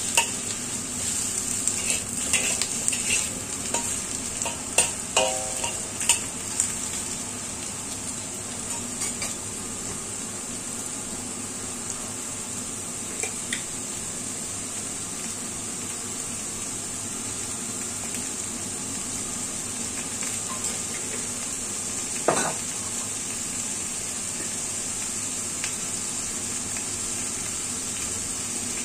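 Winter melon cubes with garlic and ginger sizzling steadily in hot oil in a wok. A spatula scrapes and clicks against the wok in the first several seconds, and there is a single louder knock about 22 seconds in.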